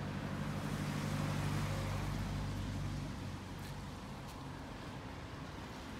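A motor vehicle's engine running with a low steady hum that fades about three seconds in, over a steady outdoor noise.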